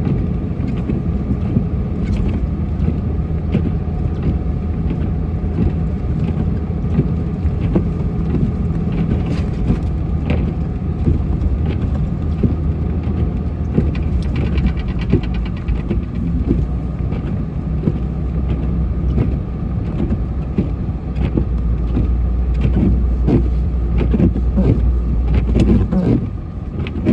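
Plow truck driving and plowing snow: the engine runs in a steady low rumble, with scattered rattles and scraping on top.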